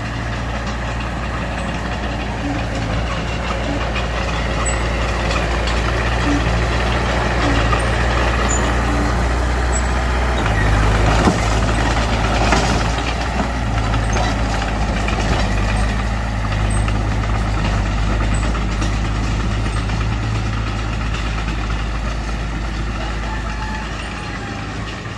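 Heavy diesel earthmoving machinery running and working steadily, growing louder around the middle, with a sharp knock about eleven seconds in.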